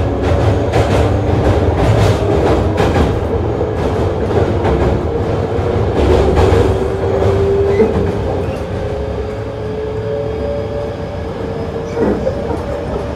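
Hankyu 8000 series electric train running, heard from inside the car: the Toshiba GTO-VVVF inverter's whine climbs slowly in pitch as the train gathers speed, over the rumble of the wheels and clicks at the rail joints.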